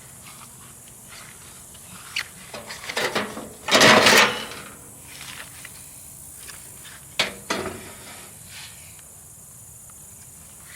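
Knocks and clatters of tools and metal parts being handled. A few light clicks come first, then one louder scraping clatter about four seconds in and a sharp knock a few seconds later.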